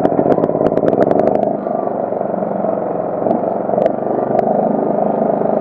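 Small portable generator engine running steadily just after starting, with a quick rattle of clicks in the first second and a half.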